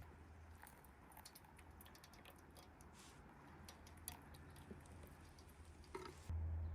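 Near silence with faint, scattered light clicks and ticks. A low hum comes up suddenly near the end.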